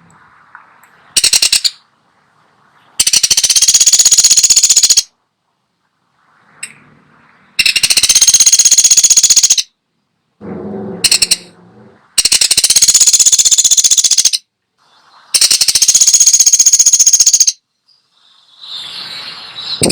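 Pelatuk sampit woodpecker giving loud, rapid rattling calls. Each rattle is a fast run of pulses lasting about two seconds, repeated with short pauses between.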